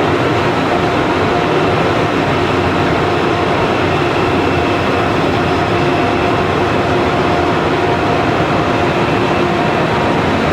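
Double-unit ICE high-speed train starting off, a loud steady running noise with a few held whining tones; no stepped rising scale is heard.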